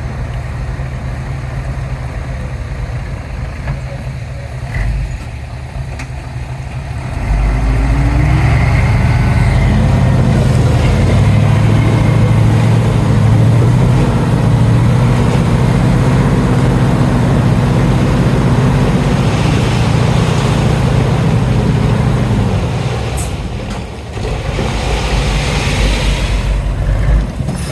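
Heavy diesel engine of earthmoving machinery running. About seven seconds in it revs up and works hard under load. It eases off a little after twenty seconds, then picks up again near the end.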